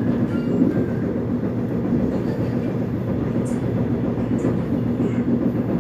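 Interior of a Seoul Metropolitan Subway Line 1 express train running between stations: a steady rumble of the wheels on the track with a low hum underneath, and a few faint high squeaks in the second half.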